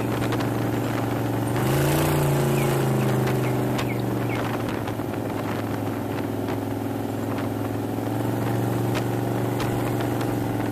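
Open hot rod roadster's exposed V8 engine running steadily at freeway cruising speed, with wind and road rush in the open cockpit. About two seconds in the engine note swells and bends up and back down before settling again.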